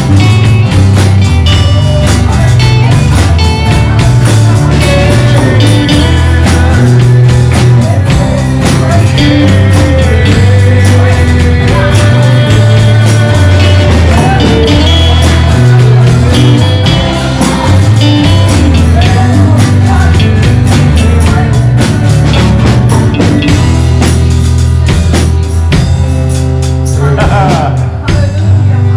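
Live church worship band playing: drum kit, bass and guitar, with singing over it. It thins out near the end.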